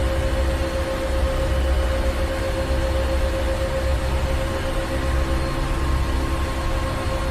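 Ship's engine room machinery running steadily: a low engine rumble that rises and falls in slow pulses under a constant hum tone and a wash of mechanical hiss.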